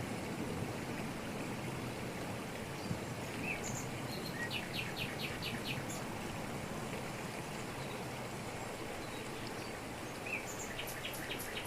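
Waterfall rushing steadily over rocks in tropical forest, with a bird calling over it: a quick run of about seven short, high notes around four to six seconds in, a few single chirps, and another rapid run starting near the end.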